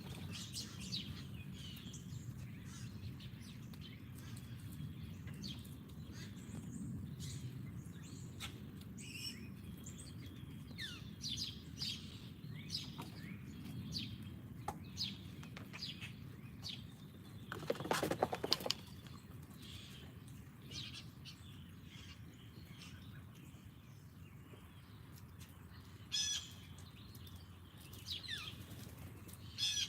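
Small wild birds chirping in short, repeated calls, over a low steady outdoor rumble. A little past the middle comes one brief, louder rustling flurry, like wings flapping.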